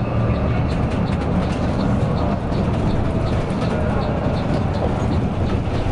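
Mercedes-Benz OC 500 RF 2542 coach's diesel engine running steadily under way, a low drone heard from inside the bus, with a faint fast ticking over it.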